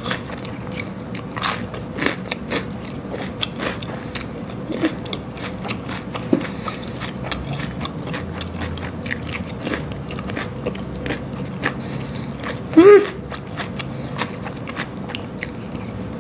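A person chewing a crunchy salad of raw bok choy and croutons, with many small sharp crunches. About thirteen seconds in there is a short hummed "mm" that falls in pitch.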